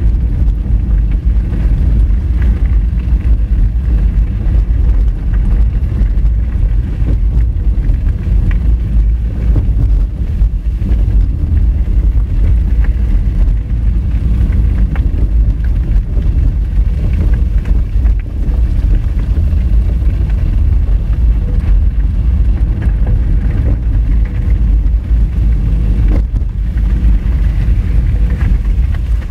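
Honda Fit driving over a rough gravel and rock dirt road: a steady, heavy low rumble from the tyres and suspension. Scattered small clicks and knocks come from stones against the car.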